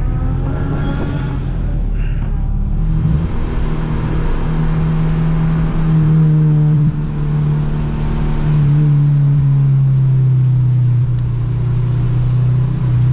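Honda Civic's engine under way, revs climbing over the first few seconds, then a brief lift about seven seconds in before the note sinks slowly as the car slows, over steady road and tyre noise.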